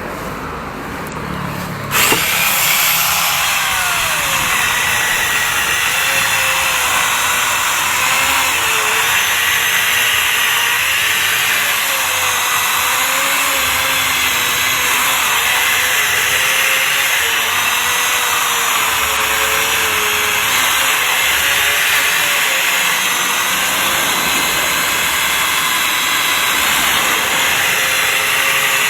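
Bosch angle grinder with a mini chainsaw attachment starting up about two seconds in and running steadily as it cuts into a thick branch, its motor pitch wavering up and down under the load. The bar is too small for wood this thick.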